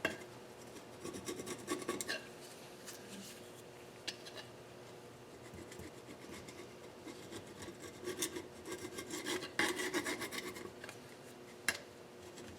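Hand scraping on a KA24DE cylinder head, a tool dragged in short irregular strokes to lift old gasket material and carbon, the longest run of strokes about 8 seconds in. A few sharp metal clicks come between the strokes.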